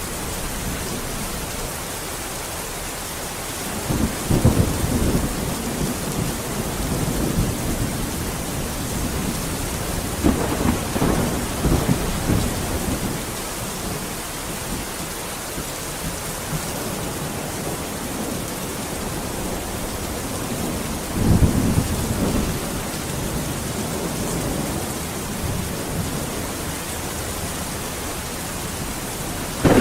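Steady heavy rain with rolls of thunder rumbling in three times: about four seconds in, around ten to twelve seconds, and again near twenty-one seconds.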